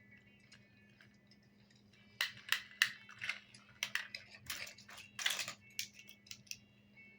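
A quick run of sharp clicks and clatters, hard plastic toy construction vehicles being handled and knocked together, lasting a few seconds from about two seconds in.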